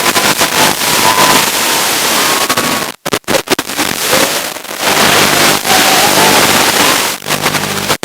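Steady loud static hiss from the audio channel of an FPV video receiver, with a faint wavering tone under it, broken by brief sudden dropouts about three seconds in, again around four and a half and seven seconds, and near the end.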